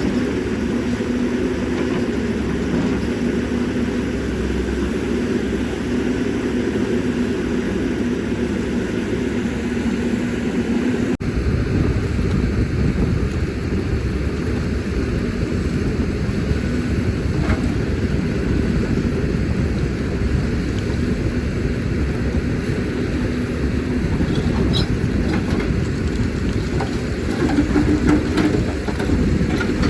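CAT 320D excavator's diesel engine and hydraulics running steadily under work. About eleven seconds in the sound changes abruptly to a rougher, heavier rumble, and a few light knocks come through near the end.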